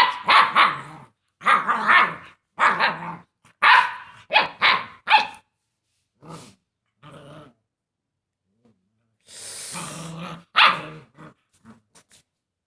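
Rottweiler barking: a quick run of loud barks over the first five seconds, a pause, then a rough growl and one more bark near the end.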